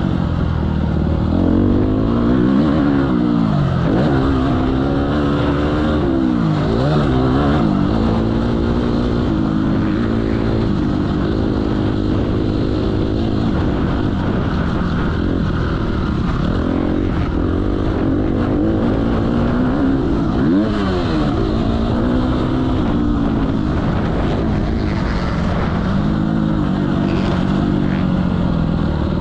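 Motocross motorcycle engine noise, its pitch rising and falling over and over as the throttle is opened and closed.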